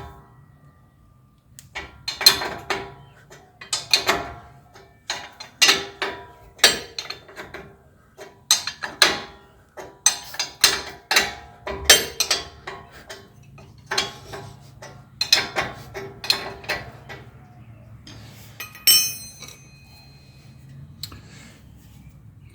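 Metal clinks and clicks of a 21 mm wrench being turned and repositioned on a lower ball joint nut, in repeated bursts about once a second, thinning out near the end.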